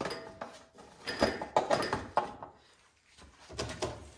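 Scattered clicks and light knocks of the snowblower's plastic engine shroud and wiring being handled, in small clusters with a quiet gap a little before the end.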